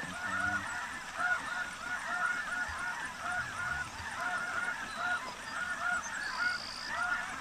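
A large flock of snow geese calling, with many short, overlapping high-pitched honks going on without a break.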